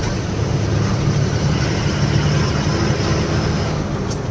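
Lorry engine running with a steady low drone and road noise, heard from inside the cab while driving.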